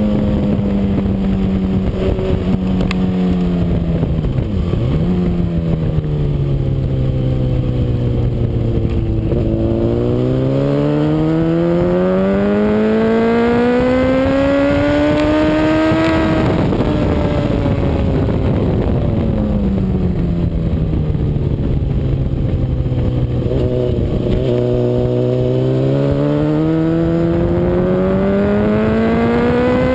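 Honda CBR RR sport bike's inline-four engine at track pace: the revs drop under braking with a short blip about four seconds in, climb steadily for about six seconds through a long pull, fall again, hold low for a few seconds and rise once more near the end.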